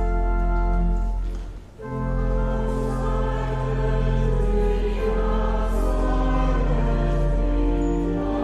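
Voices singing church music with organ accompaniment in sustained chords over a steady low bass, with a short break between phrases about a second and a half in.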